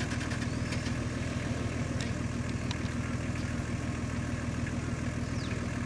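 Four-wheel-drive engine idling steadily, an even low hum that does not change.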